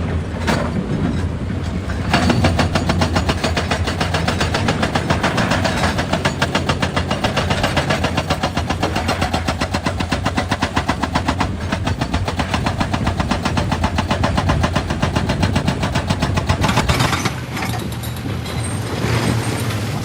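Excavator working with its diesel engine running, a fast, even pulsing from about two seconds in that stops a few seconds before the end.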